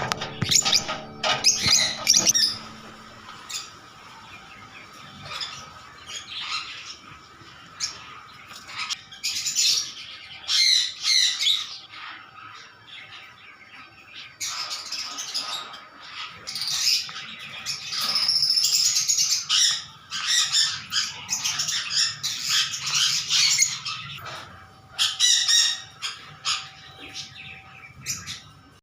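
African lovebirds chirping and squawking in repeated bursts of shrill, high calls, with short lulls between them.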